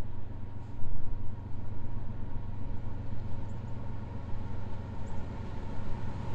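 Diesel locomotive engine running steadily: a low, even drone.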